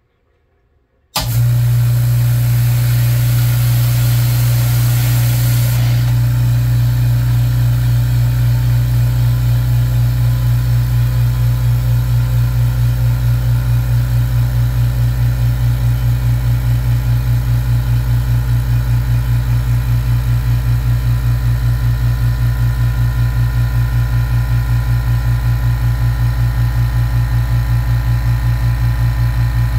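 A Makita MAC210Q quiet-series 2-gallon, 1 HP air compressor switches on about a second in and runs steadily with a low motor hum. A high hiss rides over it for the first few seconds, then drops away.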